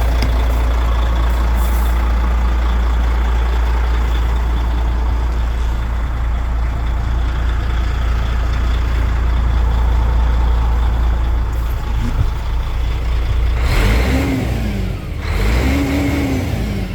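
DAF CF85.410 truck's diesel engine running with a steady low rumble, then revved twice near the end, the pitch rising and falling each time.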